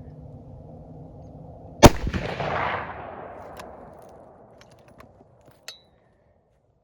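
A deer rifle fired once about two seconds in, a sighting-in shot, its report rolling away over the next couple of seconds. A few light clicks follow.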